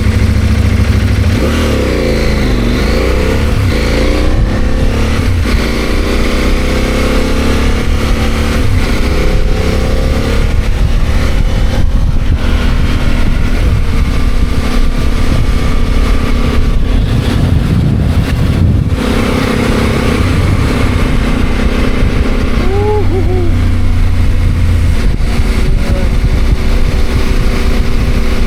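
CFMOTO 800MT's parallel-twin engine running on the road, its pitch rising and falling as it speeds up and eases off, then holding steadier, over a constant low rumble and a rush of noise.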